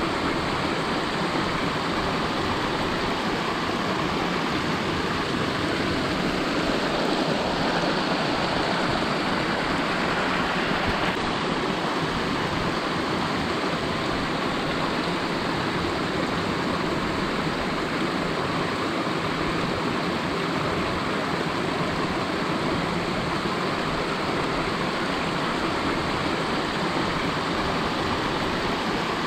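Mountain waterfall running during rainfall: a steady, unbroken rush of falling water.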